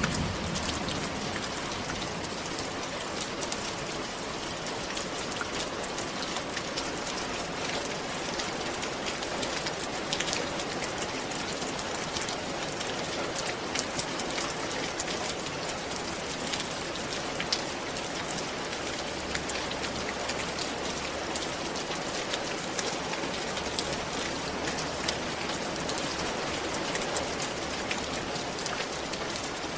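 Steady rain falling on a roof: an even hiss, dotted with many sharp ticks of single drops striking.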